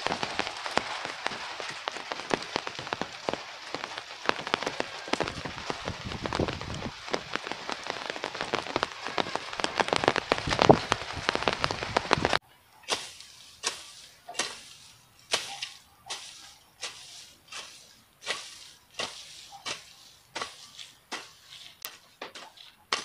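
Steady rain falling, a dense patter of drops. About halfway through it cuts off. It gives way to regular strokes, about one and a half a second, of a hoe scraping weeds off the ground.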